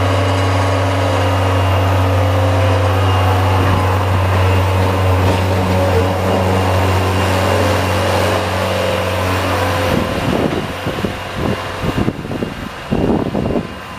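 Engine of a snow-plowing vehicle running with a steady hum. About ten seconds in, the hum breaks into an uneven, choppy pulsing.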